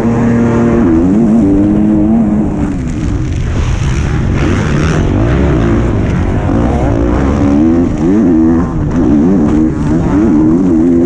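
125cc two-stroke motocross bike engine heard onboard, revving hard and backing off again and again, its pitch climbing and dropping back repeatedly.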